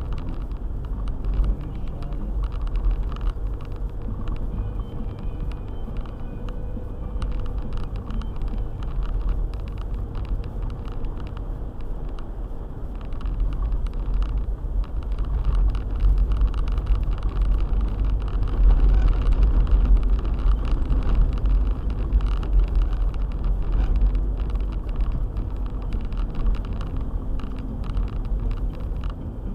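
Four-wheel-drive car driving on a snowy road: a steady low rumble of engine and tyres with many small knocks mixed in, swelling louder about halfway through.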